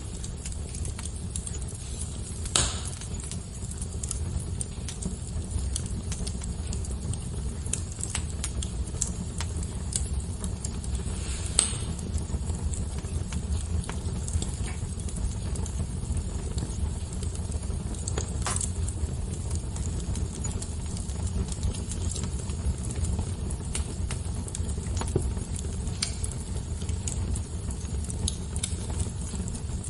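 Wood fire crackling: many small irregular snaps over a low steady rumble, with three louder pops about two and a half, eleven and a half and eighteen and a half seconds in.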